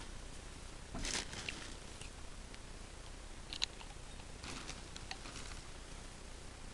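Coarse wood shavings being handled and packed down into the sheet-metal fuel tin of a sawdust stove: scattered light crunching and scraping, loudest about a second in, with a sharp click a little past halfway.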